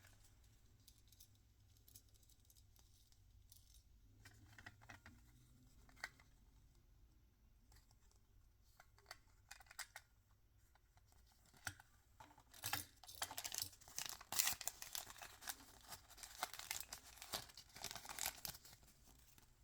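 Toy packaging wrapper being handled, torn open and crinkled: scattered light clicks and rustles at first, then a stretch of dense crackling tearing and crinkling from about two-thirds of the way through until shortly before the end.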